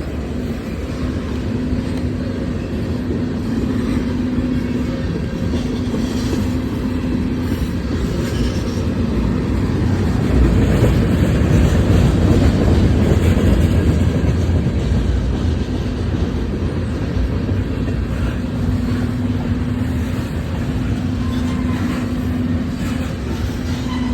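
Freight train cars rolling past close by: a steady rumble and clatter of wheels on rail that grows louder about ten seconds in, then eases again.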